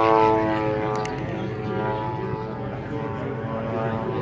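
Propeller aircraft engine passing by, its steady drone loudest at the start and then easing off while its pitch falls slightly.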